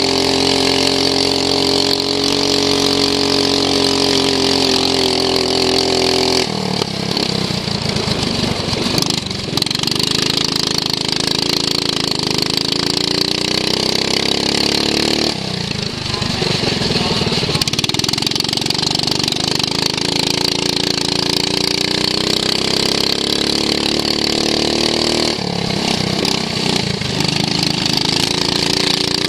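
Racing lawn mower's engine, heard onboard and running hard. Its revs drop abruptly three times, about a quarter, half and most of the way through, and climb steadily back up after each drop as the throttle comes off and goes back on around the circuit.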